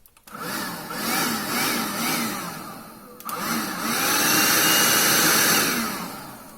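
Electric motor of a small cordless battery-powered appliance run in two spells: first in several quick speed swells, then brought up to speed, held for a couple of seconds and let wind down.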